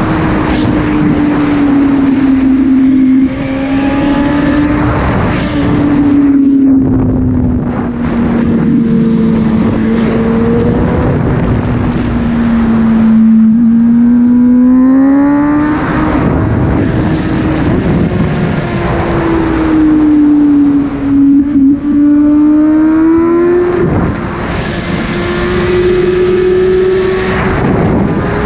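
Sport motorcycle engine running hard through bends, its pitch sagging and climbing slowly and rising sharply about halfway through, with steady wind rush on the microphone. The level dips briefly twice, once about a quarter of the way in and again about three quarters of the way in.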